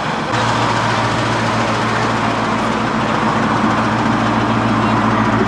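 A car engine running steadily at idle, a low even hum that starts abruptly just after the beginning.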